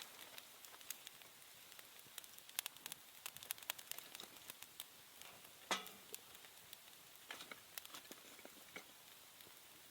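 Newly lit campfire of kindling crackling faintly, with scattered small pops and one louder crack a little before six seconds in.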